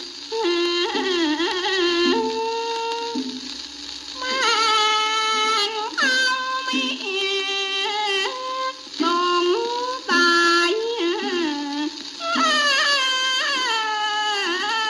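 A woman singing in the Thai classical style, holding and bending long notes in wavering, ornamented phrases of a second or two, played from an old shellac 78 rpm record.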